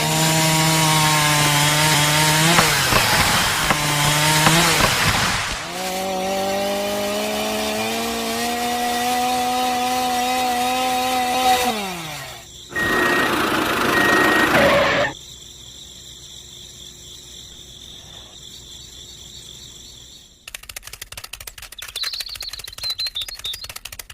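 A small motor whining at a steady pitch that sags and recovers as it takes load, then winds down about twelve seconds in. A short harsher buzz follows, then rapid ticking near the end.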